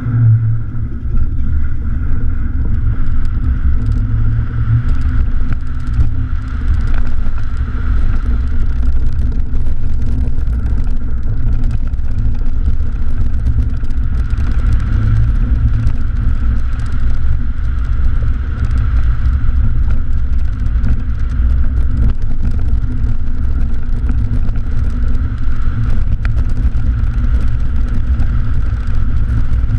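1984 Mercedes-Benz 190E 2.3's 8-valve four-cylinder engine running under load as the car is driven around a grass rallycross course, heard from a camera mounted on the outside of the car. A loud, steady low rumble with no break.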